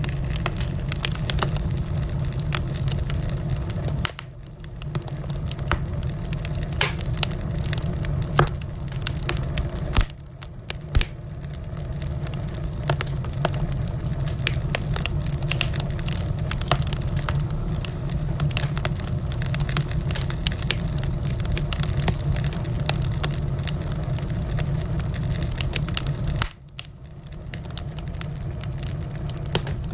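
Wood fire in a fireplace crackling, with frequent sharp pops over a steady low rumble. The sound dips suddenly and briefly three times, about 4, 10 and 26 seconds in.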